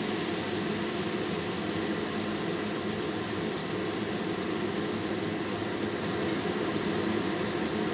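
Oxtail and tomatoes frying in a wok: a steady sizzle over an even hum.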